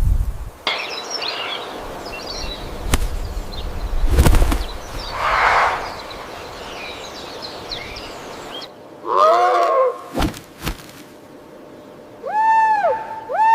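Birds chirping and calling in a natural setting, with a few sharp knocks and a rumble of wind. Near the end a loud, clear call with an arched pitch repeats about once a second.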